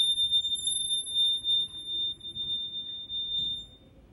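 A shortened rod, rubbed with rosin, singing in longitudinal vibration: one steady, high-pitched tone with a faint higher overtone, stopping near the end. The high pitch comes from the shortened length of the rod.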